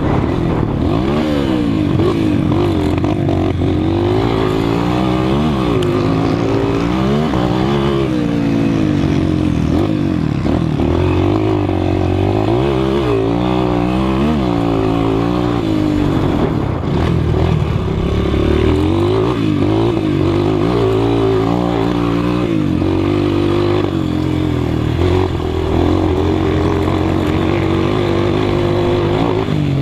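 200 cc motocross motorcycles racing, their engines revving up and falling back again and again as the riders open and close the throttle and shift. Several bikes are heard at once.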